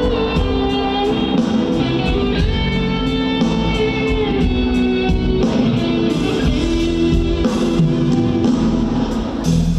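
Live rock band playing an instrumental passage led by electric guitar over a steady drum beat.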